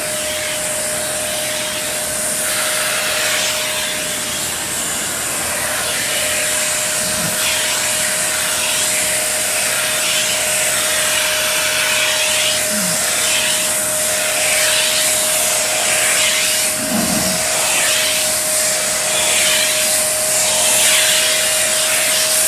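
Vacuum cleaner running steadily: a constant motor whine over a rush of air that swells and fades every second or two.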